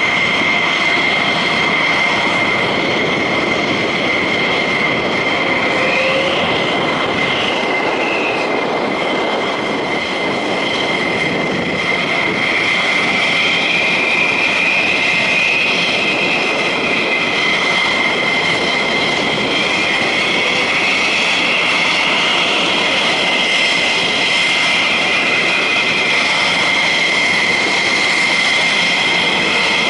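Jet engines running steadily: a continuous high whine over a broad rush of noise, with faint wavering tones drifting in and out.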